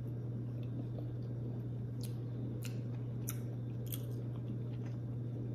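Chewing a mouthful of deviled egg, with a few soft wet mouth clicks about two-thirds of a second apart midway, over a steady low hum.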